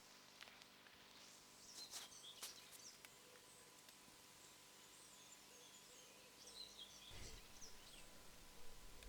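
Faint woodland ambience: small birds chirping high and thin, with a few soft clicks in the first three seconds and a low rumble near the end.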